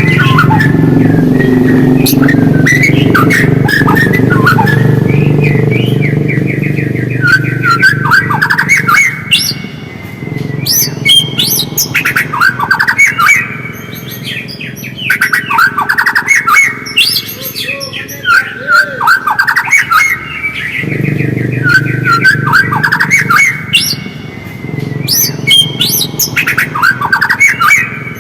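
White-rumped shama (murai batu) singing in fast, repeated chattering phrases with sweeping notes. A steady low hum runs underneath for the first third and again in the last quarter.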